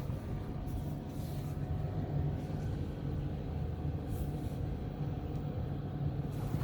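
Steady low mechanical hum from a running machine, with no other clear event over it.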